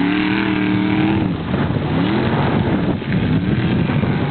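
Formula Offroad hill-climb car's engine revving hard. It is held at high revs for about a second, then drops away and revs up again in short rises as the car works on the sandy slope.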